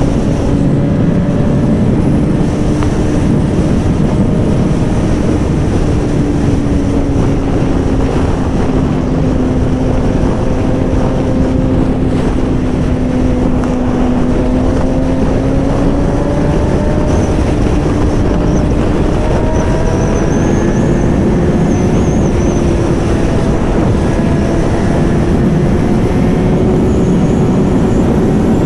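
2008 Suzuki GSX-R600's inline-four engine with an M4 slip-on exhaust running steadily under way, under heavy wind rush on the microphone. The engine note sags slightly about halfway through, then climbs steadily over the last third as the revs rise.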